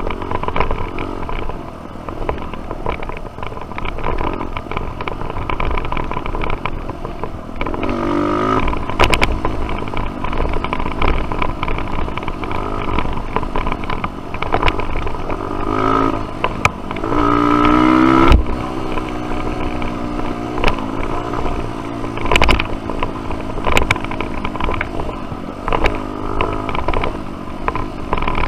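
Dirt bike engine running under load on a trail, with rising revs around eight seconds and again near seventeen seconds, and scattered knocks and clatter.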